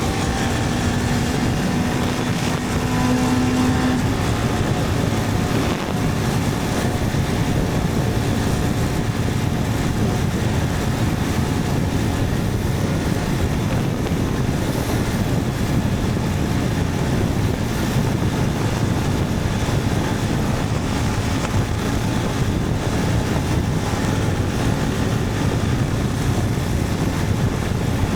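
Motorcycle riding at a steady pace, with its engine running under heavy wind noise on the microphone. A steady hum sits on top for the first four seconds, then stops.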